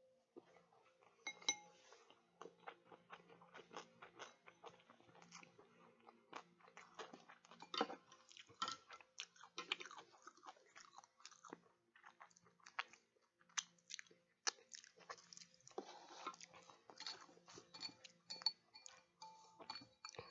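Close-miked chewing of food: a steady run of wet, irregular mouth clicks and smacks, with a few louder bites.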